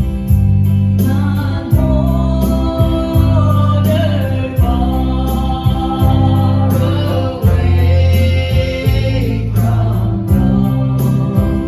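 Gospel song performed live: voices singing over instrumental backing, with a strong bass line underneath.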